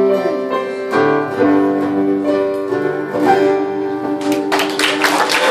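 A live band plays the song's closing held chords, changing chord about a second in. Audience applause breaks out near the end as the song finishes.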